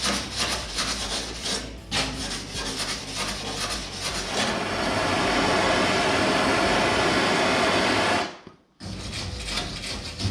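Power tools cutting into rusted car body sheet metal: quick rasping strokes for about four seconds, then a few seconds of steady loud cutting that stops abruptly about eight seconds in, followed by more strokes.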